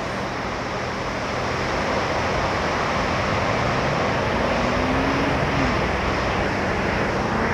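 D&S IQ touchless car wash running its wash cycle: a steady rush of water jets spraying the car.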